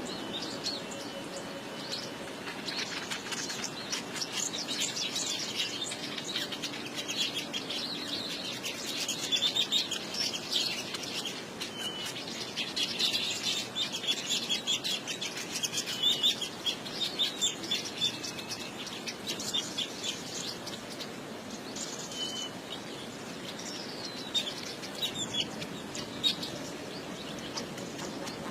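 Birds chirping: a busy run of many short, overlapping high chirps.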